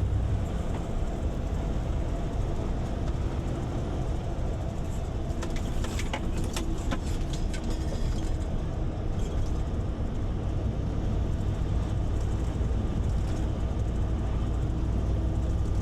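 Truck on the move: a steady low engine and road rumble, with a short run of sharp clicks or rattles around the middle.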